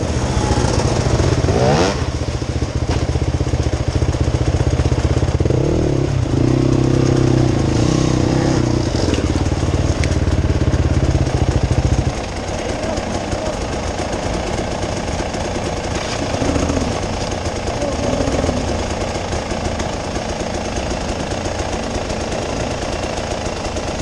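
Off-road vehicle engine running while driving a trail, a heavy low rumble that drops to a lower, steadier level about halfway through.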